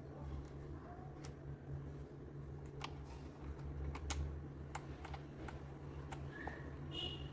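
Typing on a Redragon K596 Vishnu mechanical keyboard with linear red switches: irregular key clacks with short gaps between them, over a steady low hum.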